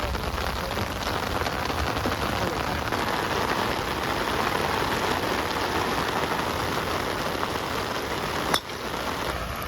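Heavy rain falling steadily, with one sharp click about a second before the end.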